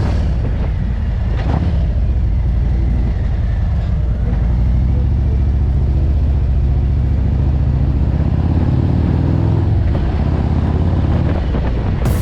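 Harley-Davidson Road Glide's V-twin engine running steadily under way, with road and wind noise.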